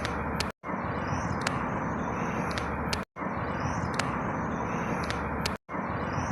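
Outdoor ambience: a steady rushing noise with faint high chirps and a few ticks, played as a short loop. It cuts to silence for a moment and restarts identically about every two and a half seconds.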